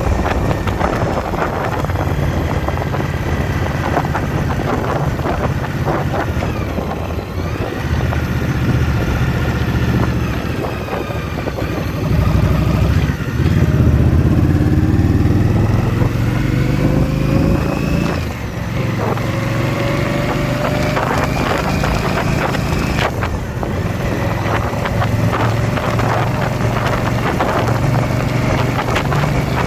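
Indian motorcycle's V-twin engine running under way, its pitch climbing steadily and then dropping at each of several gear changes.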